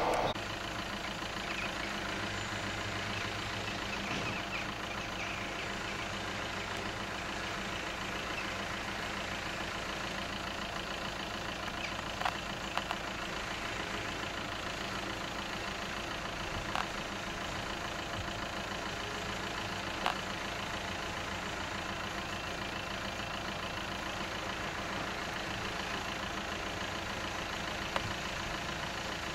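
Car engine idling steadily, heard from inside the stationary car, with a few short faint clicks here and there.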